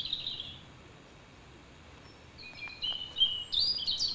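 Birds calling: a burst of chirps at the start, then a run of short whistled notes from about two and a half seconds in, over a faint low background hum.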